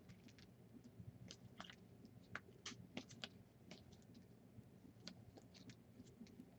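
Faint, irregular clicks and light crinkles of trading cards being handled and flipped through one by one.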